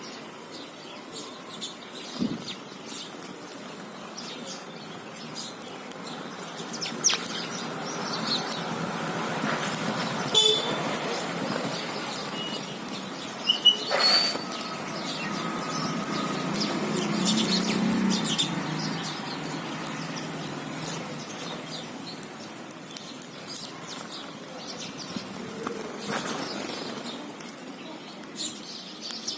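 House sparrows chirping and cheeping over and over, with a few sharp clicks. A low rumble swells and fades around the middle.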